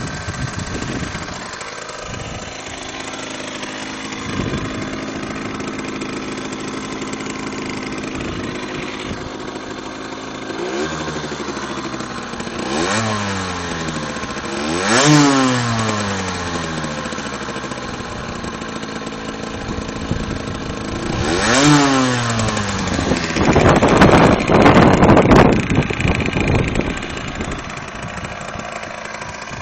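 Derbi Senda X-Race 49cc two-stroke moped engine through twin Metrakit Thrower MK2 exhausts, idling and then blipped several times, the pitch climbing and falling back each time. Near the end comes a louder, rougher stretch before it settles back to idle.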